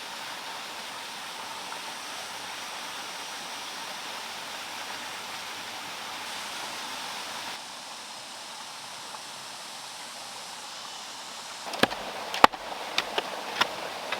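Water running steadily, like a stream or small waterfall. Near the end come several sharp knocks, the loudest about twelve and a half seconds in.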